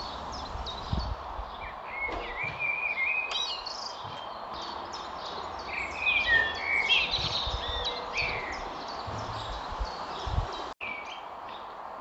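Small birds chirping and singing, with louder song phrases about two seconds in and again around six seconds, over a steady background hiss. The sound drops out for an instant near the end.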